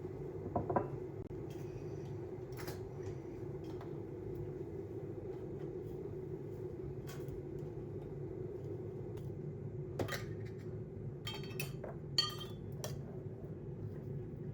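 Dishes and cutlery clinking now and then over a steady low hum, with a cluster of ringing clinks about ten to thirteen seconds in.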